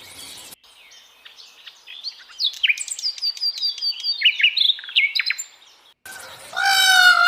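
Small birds chirping in quick, high notes, many of them falling sharply in pitch, overlapping for several seconds. Near the end a louder, lower animal call with a rich, ringing tone comes in and holds its pitch.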